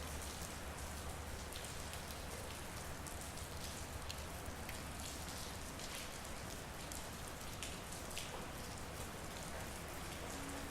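Steady rain falling, with the sharp ticks of single drops striking every so often. A low hum lies underneath in the first few seconds.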